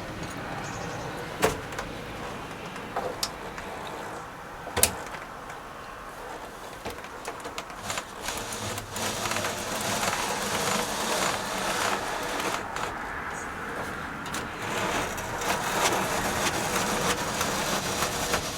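Hand work on a van door: a couple of sharp knocks, then a longer stretch of rubbing and scraping with many small clicks.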